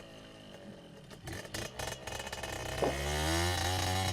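Sport bike engine, faint with a few scattered clicks at first, then near the end a steady engine note that rises slowly in pitch as the bike accelerates.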